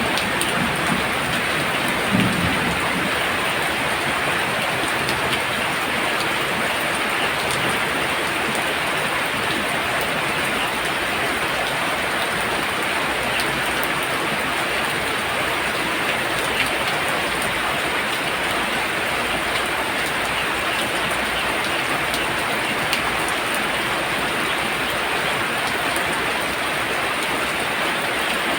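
Heavy rain falling steadily: a dense, even hiss with scattered faint drip ticks, and a brief low rumble about two seconds in.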